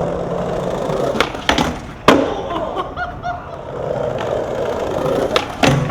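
Skateboard wheels rolling on pavement, broken by sharp clacks of the board: a loud smack a little after two seconds in and more clacks near the end.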